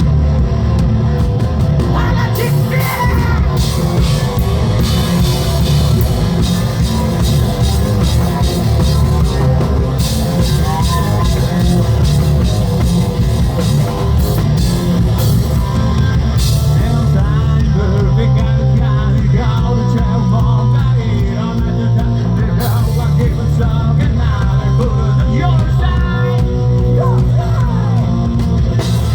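Live hard rock band playing loudly, with distorted guitars, heavy bass and a drum kit under a sung vocal line.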